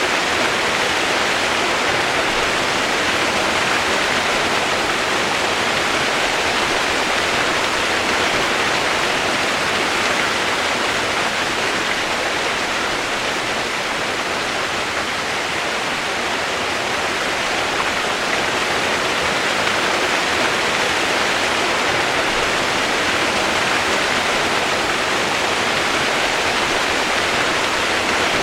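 Steady, even rain noise: a continuous dense hiss of falling rain with no separate drops or changes.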